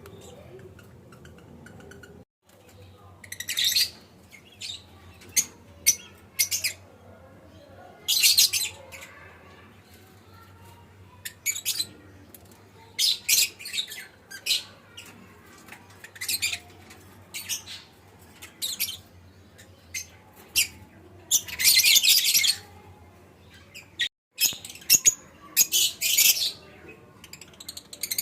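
Lovebird chicks calling: high-pitched chirps and raspy squawks in short, irregular bursts, with a few longer calls of about a second.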